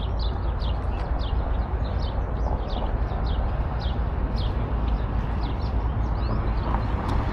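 Birds chirping: many short chirps, each falling in pitch, two or three a second, over a steady low rumble.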